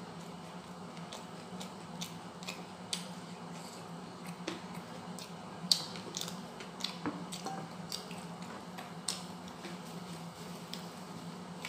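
Close-up eating sounds: chewing fried fish, with scattered sharp wet clicks and smacks of the mouth, the loudest a little under six seconds in, over a steady low hum.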